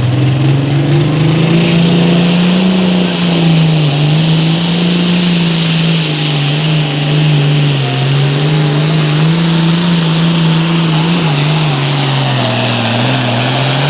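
Super Farm pulling tractor's turbocharged diesel engine running flat out under load as it pulls the sled, its pitch wavering up and down. A high turbo whine climbs over the first couple of seconds and carries on above a hiss.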